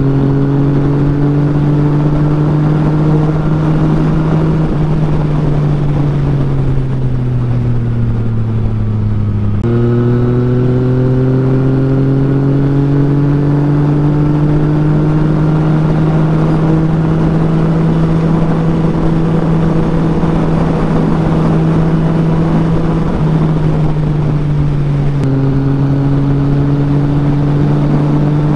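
Yamaha XSR900's inline-three engine pulling at highway speed over a steady rush of wind and road noise. Its pitch climbs slowly, sags for a few seconds, jumps back up about ten seconds in, then rises gradually again and steps down once near the end.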